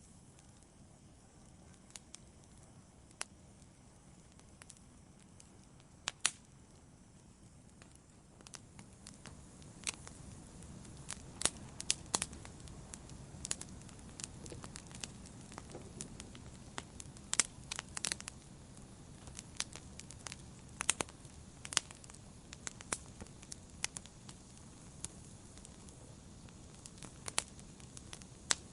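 Wood campfire crackling: sharp pops and snaps scattered over a soft low hiss of burning. The pops are sparse at first and come much more often from about eight seconds in.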